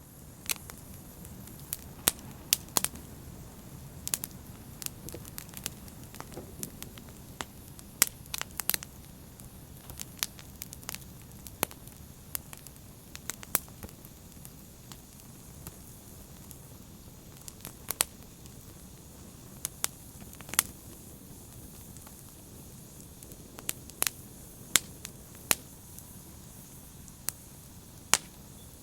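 Fire burning with a steady low hiss and frequent sharp, irregular crackles and pops, several of them loud.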